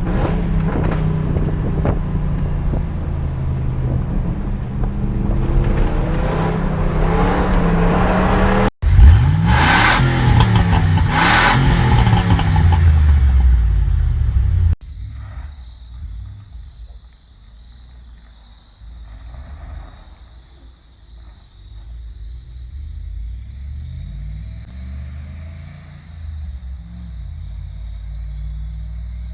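Exhaust of a Ford 4.6L Triton V8 with short equal-length headers and an aftermarket exhaust behind the stock catalytic converters, in three separate recordings. In the first the engine pulls with its pitch slowly climbing. About nine seconds in comes a louder stretch of revs rising and falling, and after about fifteen seconds a much quieter stretch of low running with a few light blips.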